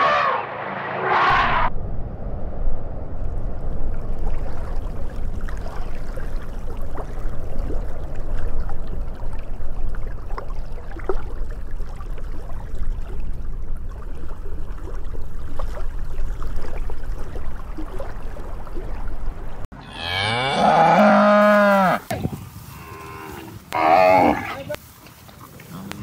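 Cow mooing: one long, loud moo, then a shorter one a couple of seconds later. Before it comes a long stretch of low rumbling noise, after a brief call at the very start.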